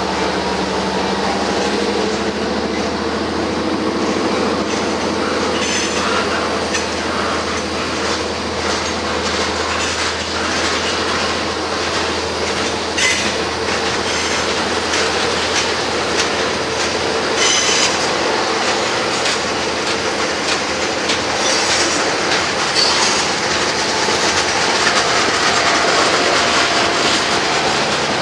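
Freight cars of a mixed freight train rolling steadily past: a continuous rumble of steel wheels on the rails with clicks over the rail joints and a few brief high-pitched wheel squeals.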